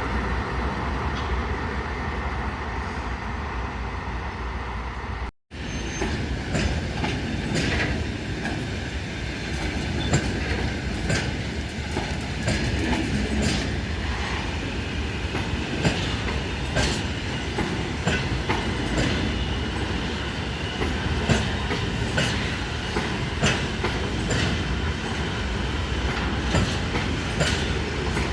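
Freight train rolling past, its wheels clacking over rail joints at irregular intervals of about a second over a steady rumble. The sound cuts out briefly about five seconds in.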